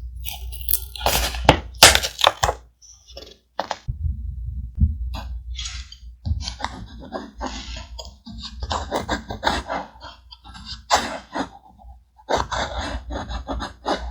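Thick paper and scrapbook pieces being handled for journal collage: irregular crinkling, rustling and short taps and knocks, over a steady low rumble.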